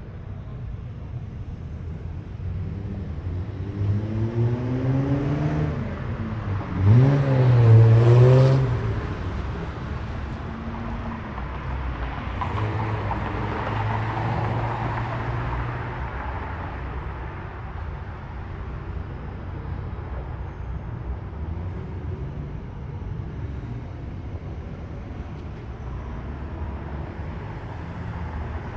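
Japanese cars driving past slowly, engines running. About seven seconds in, one car revs hard in a short, loud burst that dips and climbs in pitch, with a sharp hiss from the exhaust. A second car passes a few seconds later.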